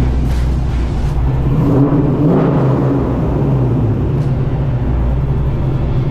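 Car engine running while driving, a steady low drone that rises briefly in pitch about two seconds in as it accelerates.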